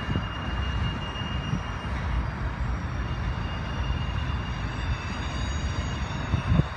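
Covered hopper cars of a BNSF grain train rolling past on the rails: a steady low rumble with a faint high squeal, and one louder thump near the end.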